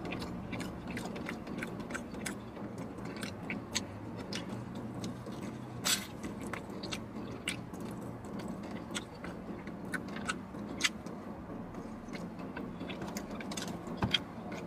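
A man chewing and biting fried chicken wings close to the microphone, with many small wet mouth clicks and finger-licking smacks, over a steady low hum.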